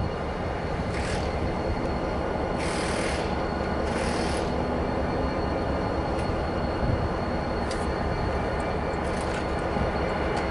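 Diesel freight locomotive running steadily, with short hisses of air about a second in, near three seconds and at four seconds.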